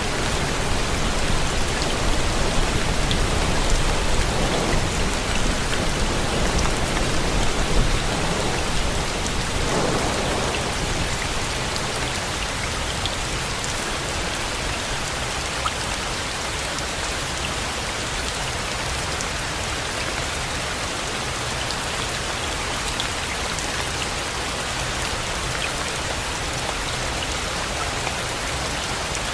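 Steady heavy rain falling, with scattered drop ticks. A low rumble, like distant thunder, swells and dies away in the first third.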